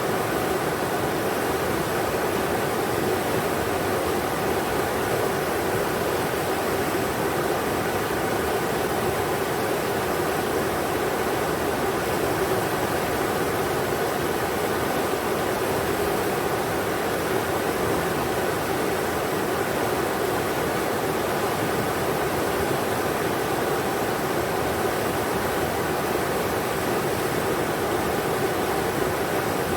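River water rushing steadily over rocks, a constant even wash of noise with no breaks.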